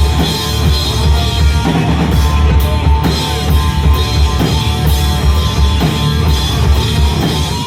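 A live band playing loud, dense music on a full drum kit with heavy bass, with regular drum hits throughout; the music stops right at the end.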